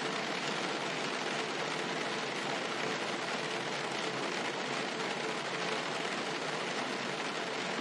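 Steady rain pattering on a car's roof, heard from inside the car as an even, unchanging wash of drops.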